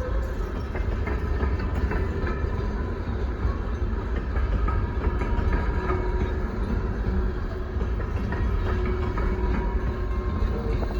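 Coal train rolling past with a steady low rumble, light wheel clicks and faint high squealing tones from the wheels on the rails.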